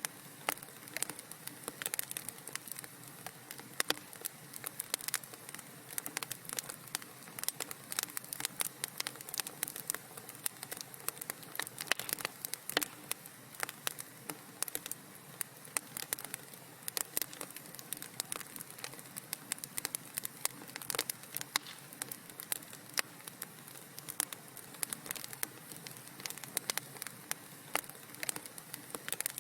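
Wood fire crackling in a fireplace: a dense, irregular stream of small sharp pops and snaps over a soft steady hiss.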